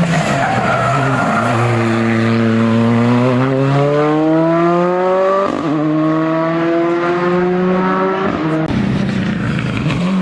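Hill-climb race car accelerating hard. The engine note climbs, drops at an upshift about halfway through, climbs again, then falls away as the driver lifts off near the end.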